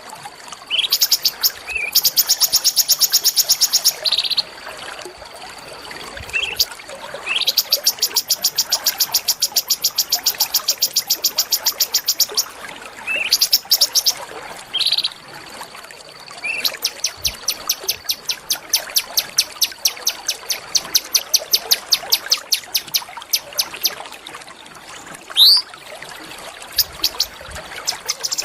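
A small songbird singing rapid, evenly repeated high trills that last several seconds each, broken by short rising whistles, over a faint steady high whine.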